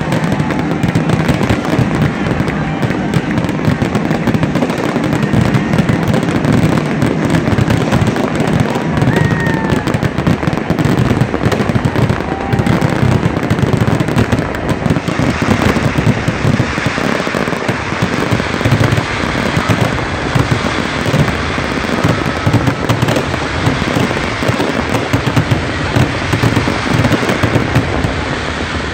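Fireworks finale: a dense, unbroken barrage of aerial shell bursts, crackling and booming without a pause. A few short whistles sound through it.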